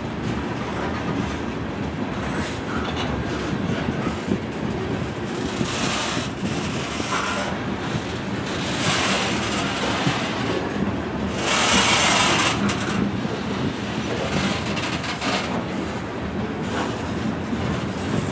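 A freight train of covered hopper cars rolling past, its steel wheels running on the rails in a steady rumble. The sound grows louder and hissier for a few seconds around nine and again around twelve seconds in.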